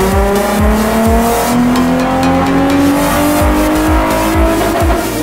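Nissan 350Z's V6 engine under full load on a chassis dyno, revs climbing steadily in a long pull and easing off near the end, over music with a steady beat.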